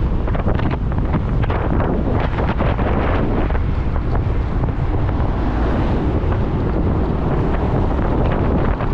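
Steady, loud wind rush over the microphone of a motorcycle on the move, heaviest in the low end, with the bike's running noise buried beneath it.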